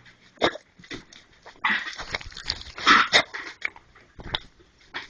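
Dogs playing roughly, making a run of short, irregular vocal sounds, the loudest about three seconds in.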